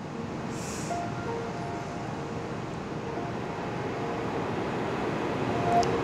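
Steady background ambience, an even wash of noise that slowly grows louder, with faint held tones coming and going.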